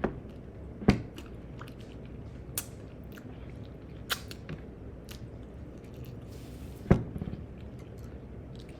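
Close-miked chewing of food, with about five sharp clicks, two of them louder, about a second in and near the end.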